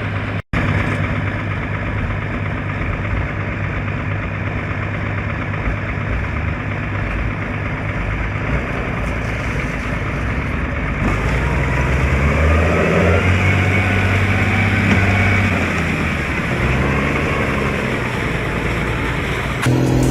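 A heavy vehicle's engine running. It holds steady at first, then its pitch shifts up and down from about the middle on, as if working under changing load. The sound cuts out for an instant about half a second in.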